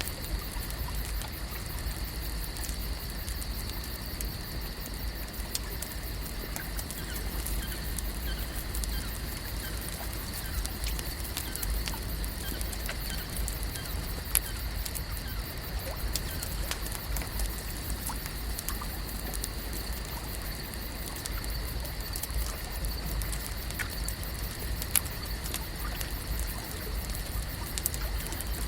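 Lake-at-night ambience: a steady bed of water noise with a constant high-pitched hum over it and many small scattered ticks and pops, with a couple of sharper clicks midway and near the end.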